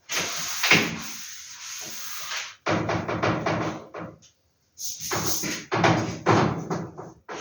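Paper and packaging being handled: a long rustling slide, then several shorter bursts of rustling and rubbing with a brief pause in between.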